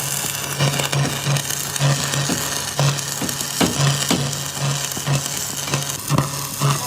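Electric arc welding on a truck's broken axle housing tube: a steady crackling sizzle with irregular sharp pops, and a low hum that pulses on and off.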